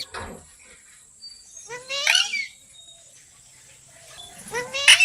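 Parrot giving two loud, rising, harsh calls, one about two seconds in and another near the end.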